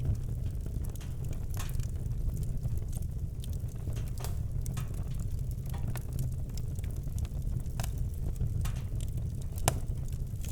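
Wood campfire crackling, with irregular sharp pops over a steady low rumble; one pop near the end is louder than the rest.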